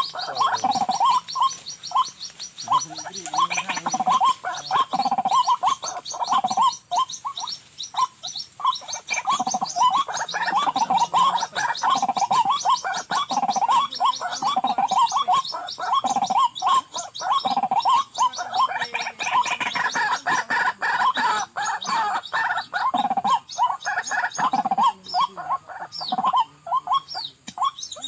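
White-breasted waterhens calling: a dense, continuous chorus of rapid, repeated croaking and gurgling notes with deeper curved notes beneath, the calls a trapper uses to lure the birds.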